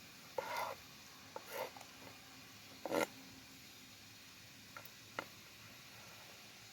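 A few short, separate clicks and scrapes, the loudest about three seconds in, over a faint steady hiss.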